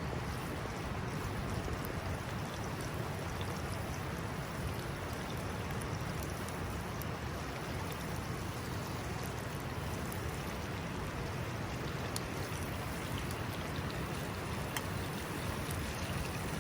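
A river or stream flowing, a steady rushing of water with a few faint ticks over it.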